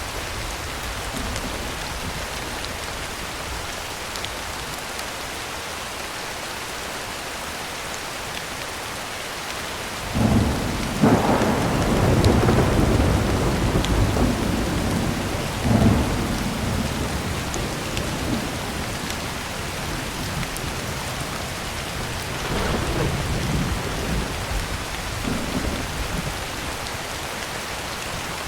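Heavy rain drumming on a tin roof as a steady hiss. A rolling peal of thunder breaks in about a third of the way through and rumbles for several seconds with a few louder cracks, and a fainter rumble follows near the end.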